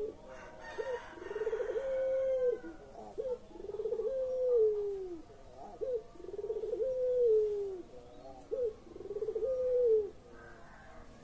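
Puter pelung dove cooing: four long coos about two and a half seconds apart, each a short rising note, then a rolling stutter that settles into a held tone and falls away at the end.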